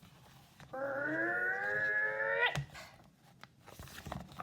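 A person's voice making a drawn-out, animal-like vocal sound effect, not words. It lasts about two seconds, rises slightly in pitch and breaks off suddenly.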